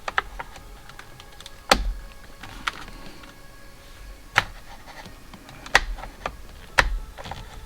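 Screwdriver tip clicking and knocking inside the steering wheel's plastic back cover while probing for the airbag's release latch: about six sharp clicks at irregular intervals.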